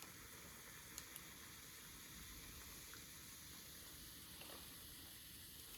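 Faint steady hiss with a couple of small ticks, cutting off abruptly at the end.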